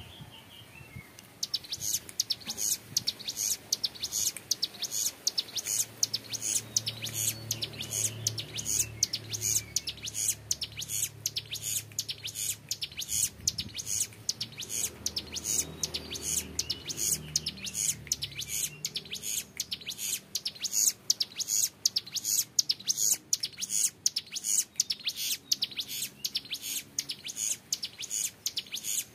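Young male ciblek gunung, a prinia, singing its long 'ngebren' song: a fast, unbroken run of high, clear short notes, several a second, starting about a second in. A faint low hum runs underneath for a stretch in the middle.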